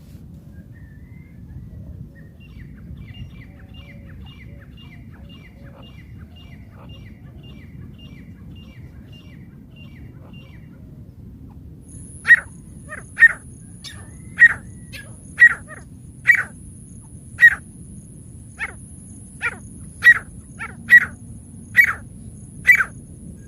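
Francolin (teetar) calling: a faint run of quick, high chirps first, then from about halfway a loud series of about a dozen sharp calls, roughly one a second.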